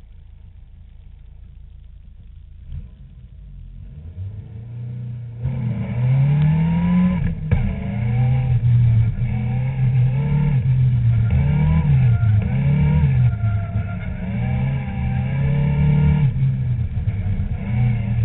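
Caterham Seven's engine heard from the open cockpit. It runs low and steady at first, then from about five seconds in revs hard, its pitch rising and falling again and again as the car is driven through the gears.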